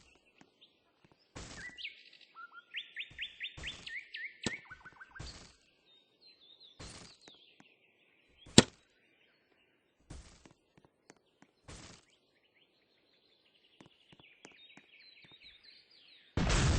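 A bird chirping in quick repeated notes, twice, with scattered knocks and one sharp loud crack about halfway through; a loud rush of noise starts just before the end.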